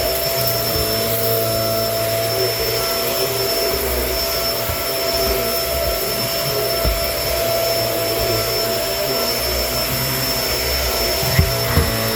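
Kenmore vacuum cleaner running steadily, its motor giving a constant whine over the suction rush, with a couple of brief sharp ticks near the end.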